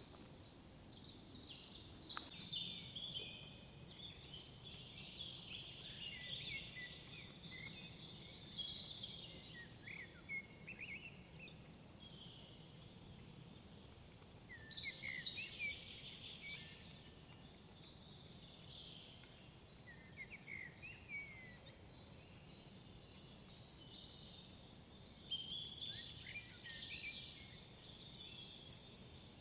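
Songbirds singing in the woods: a short phrase of song comes about every five or six seconds, each ending in a high trill, with quieter chirps in between, over a steady low hum of background noise.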